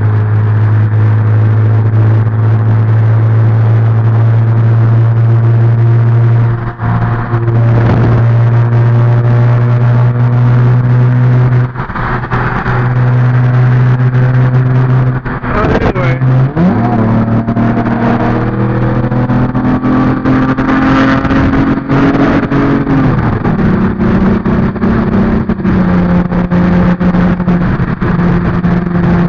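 A car engine drones at a steady pitch for the first half. It then climbs in pitch for several seconds as it accelerates and drops back to a lower steady note, as at a gear change.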